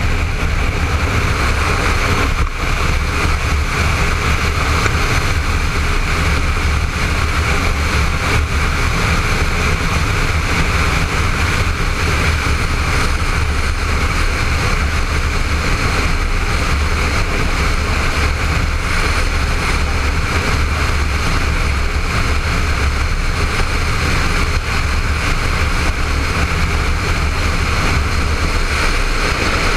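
Honda ST1300 sport-touring motorcycle cruising steadily, heard from a helmet-mounted camera: an even engine drone under a constant rush of wind.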